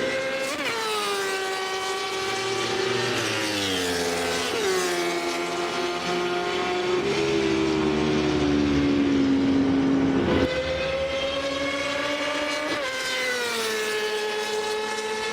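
Yamaha R6 sport motorcycle's high-revving inline-four engine passing by at speed. The engine note slides down in pitch several times, each slide broken by a sudden jump back up.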